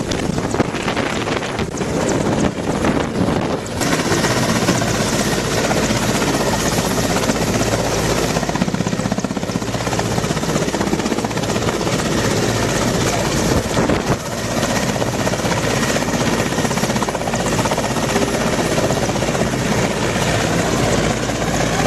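Military helicopter's rotor and engine running loud and steady, a dense whirring noise that gets fuller about four seconds in and dips briefly near the middle.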